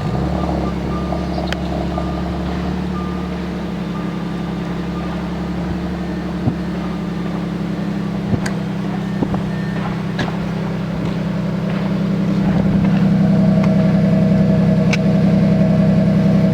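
Audi S4's supercharged 3.0-litre V6 running at steady revs through a muffler-deleted exhaust with Akrapovič tips. About twelve seconds in it grows louder.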